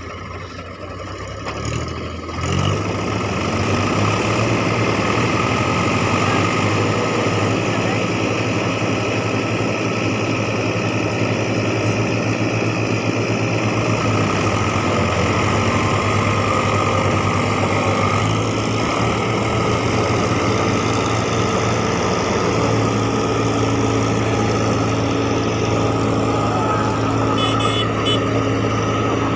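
Tractor diesel engines running. The revs climb over the first two seconds or so, then the engines hold a steady, loud, high-revving drone, as when tractors work to pull a stuck tractor free.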